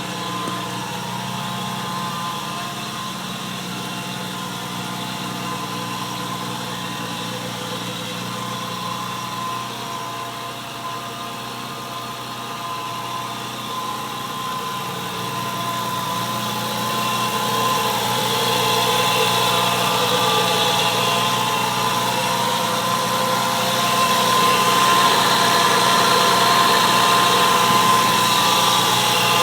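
Nissan RB26DETT twin-turbo straight-six, swapped into a Toyota Supra, idling steadily. It grows louder about two-thirds of the way through and again near the end, without any rise in pitch.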